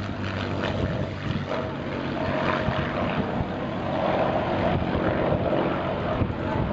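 Piston engine of a Second World War fighter, the Bf 109 or a Hurricane, droning steadily as it flies past in a display, swelling a little midway.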